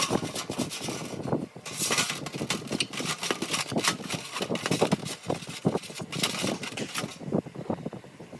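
Hand work on a part: irregular scraping and rubbing with many small knocks and clicks, which drops off sharply near the end.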